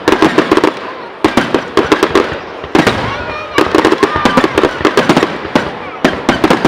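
Fireworks display salvo: rapid volleys of sharp cracking bangs, coming in repeated bursts with brief lulls between them.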